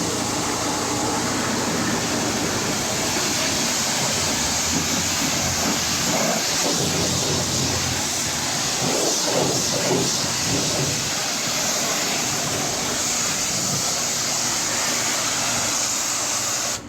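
Pressure washer spraying water onto a truck: a steady, loud hiss with a low pump hum underneath, which cuts off suddenly at the end as the trigger is released.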